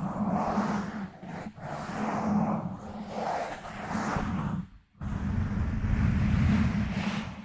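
Fingers scratching and rubbing directly on a microphone, giving a close, rustling scratch with a heavy low rumble. There is a brief break just before the midpoint, then the scratching resumes more strongly and fades out at the end.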